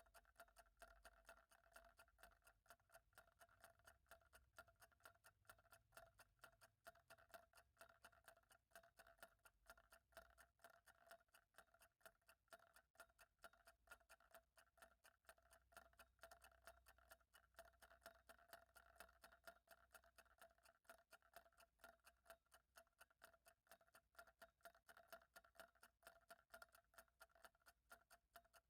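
Faint, quick and even ticking of a clock, keeping a steady rhythm throughout.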